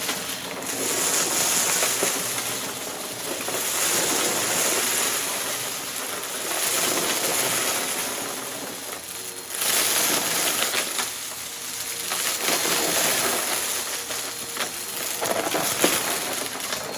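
Upright vacuum cleaner running over a rug and sucking up crunchy mess-test debris, which crackles and rattles up through the machine. The running sound swells and eases about every three seconds as the vacuum is pushed back and forth.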